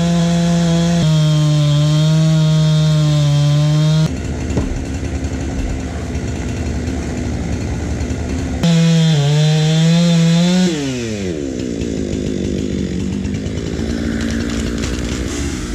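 Two-stroke chainsaw running at high revs with a steady, loud whine, breaking off abruptly about four seconds in. It revs up again near the nine-second mark, and after about eleven seconds the pitch falls as it drops back toward idle.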